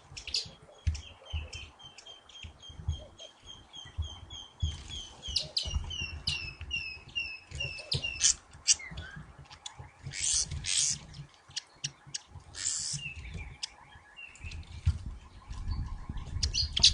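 Small birds chirping: a run of repeated high chirps, about two a second, through the first half, mixed with scattered sharp clicks and low thumps.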